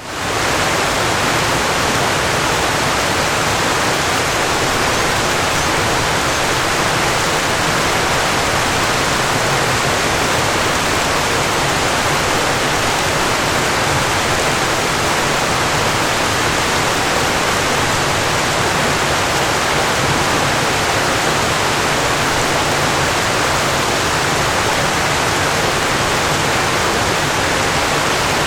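Waterfall: falling water making a steady, even rush, which rises back in quickly at the very start.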